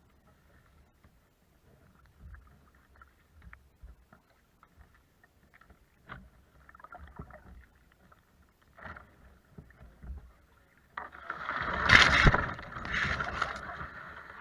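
Water splashing and rushing around a kayak, loud from about eleven seconds in, after a stretch of faint scattered knocks and clicks on the boat.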